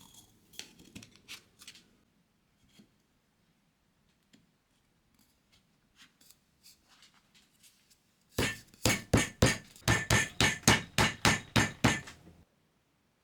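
A few faint clicks of handling, then a rapid run of about sixteen sharp hammer taps, around four a second, lasting some four seconds and stopping abruptly.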